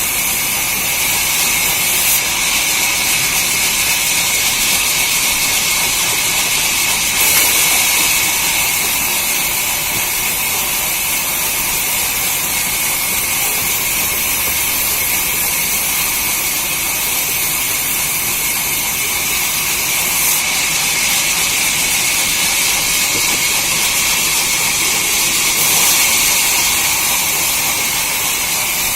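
Sawmill machinery running with a steady, hissing noise, briefly louder a few times.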